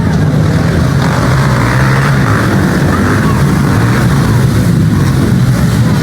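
Pit bike engines running steadily, a low engine tone that shifts a little in pitch over a haze of noise.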